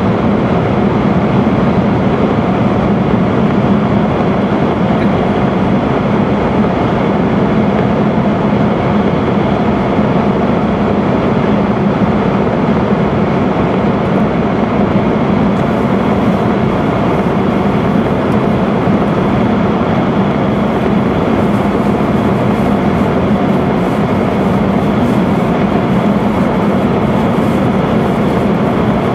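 Steady running noise of an E5 series Shinkansen at speed, heard from inside the passenger cabin while the train runs through a tunnel. A faint high hiss joins about halfway through.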